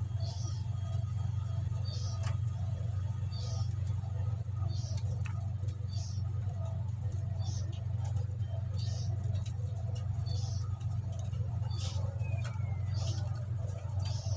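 Steady low hum, with short high-pitched chirps or squeaks repeating about every second and a half.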